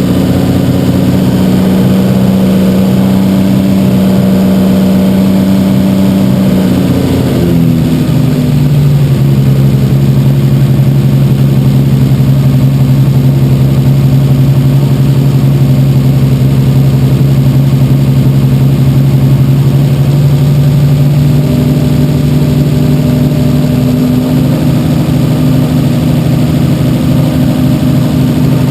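Rebuilt Toyota 1JZ-GTE non-VVTi 2.5-litre inline-six turbo engine, fitted with upgraded cams and a big turbo, idling on its first start after the rebuild. The idle speed drops about seven seconds in, holds steady, then rises a little just past twenty seconds.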